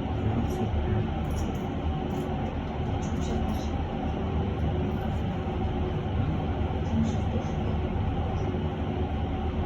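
Cabin of a moving electric bus: a steady low rumble of tyres and road, with a faint steady hum from the drive.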